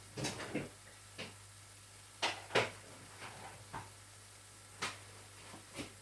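A few light knocks and clatters of kitchen things being handled and set down, the loudest pair about two seconds in.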